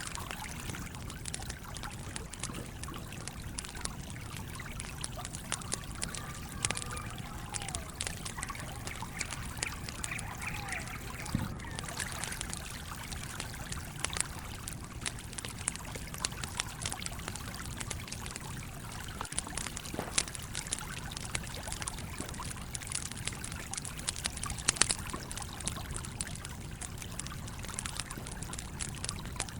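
A campfire crackling with frequent sharp pops, a few louder ones, over the steady trickling flow of a stream.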